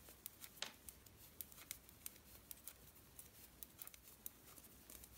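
Two knitting needles clicking faintly as stitches are purled across a row, with small irregular ticks a few times a second.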